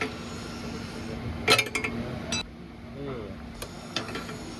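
Metal tools and engine parts clinking against each other during engine repair work: a quick cluster of sharp clinks about a second and a half in, another shortly after, and a couple of lighter taps near the end.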